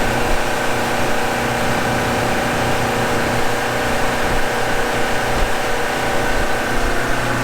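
Boat motor running steadily, a constant engine drone with a steady hum.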